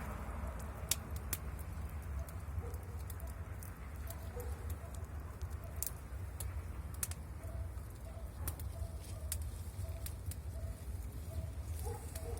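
Pigeons cooing in short repeated notes over a steady low rumble, with scattered sharp clicks.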